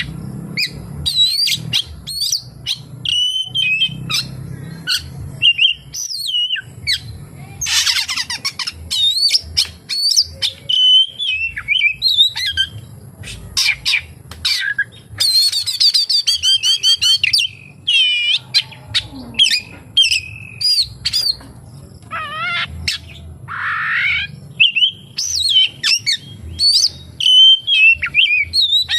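Oriental magpie-robin (kacer) singing a loud, varied song of whistles, slurred notes and chatters, with rapid trills about 8 and 15 seconds in; the song is filled with mimicked calls of other birds, the 'isian' that kacer keepers prize, including kapas tembak phrases.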